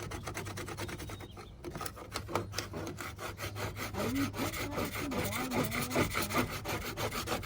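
Rapid back-and-forth scraping of an abrasive over Bondo body filler on a truck's steel body panel, several strokes a second, with a few short squeaks about four to six seconds in. The filler is not fully cured, so it abrades soft and gummy.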